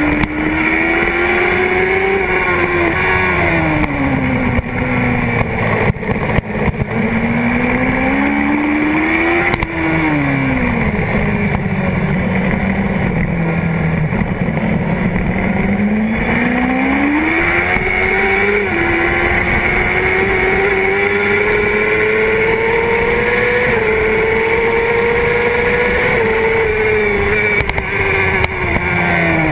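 Honda CBR600RR's inline-four engine at racing speed, heard from the fuel tank: it revs up through the gears, with a quick drop in pitch at each upshift. Between these climbs it falls away as the rider rolls off and changes down for corners, several times over.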